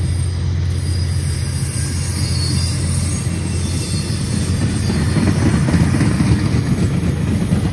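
Tri-Rail commuter train's double-deck coaches rolling past along the platform: a steady low rumble that grows louder and rougher, with wheel and car rattle, about halfway through.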